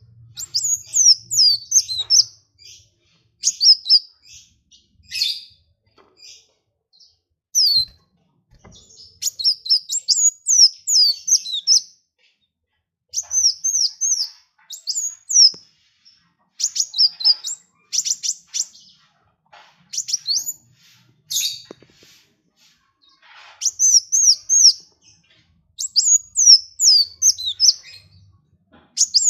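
A small songbird singing in quick phrases of high, sweeping chirps, each phrase lasting one to two seconds with short pauses between them.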